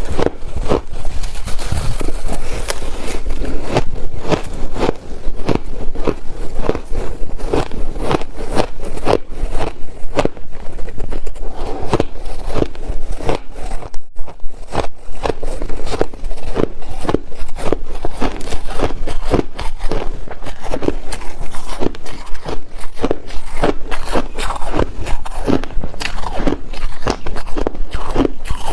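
Ice being bitten and chewed: a rapid string of sharp crunches, several a second, with a short pause about halfway.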